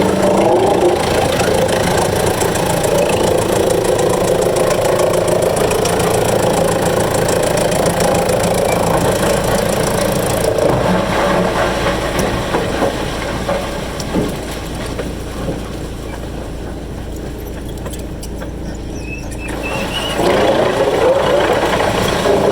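Wood chipper's engine running steadily. It drops to a quieter, lower run about two-thirds of the way through, then picks up again near the end.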